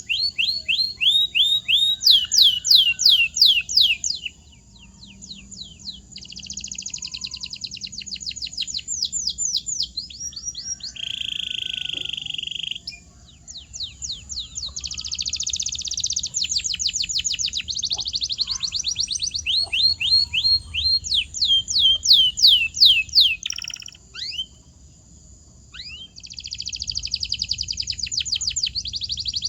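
Domestic canary singing: phrases of fast trills made of rapidly repeated high notes that slide downward, changing from one trill to the next, with a buzzy held note about eleven seconds in. Brief pauses come around five seconds in and again about twenty-five seconds in.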